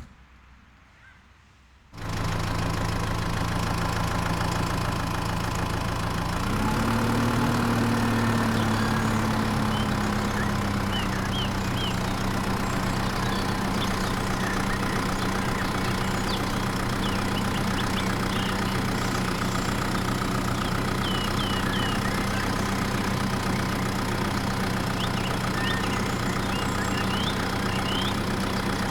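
A small engine starts running abruptly about two seconds in and then runs steadily, its pitch rising briefly around six seconds before settling.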